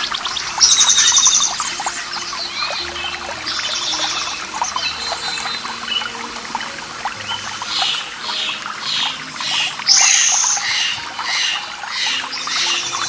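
Water trickling and splashing steadily, with birds singing over it. A loud, high call comes about half a second in and again near ten seconds, with a run of short repeated notes at about two a second in the later part.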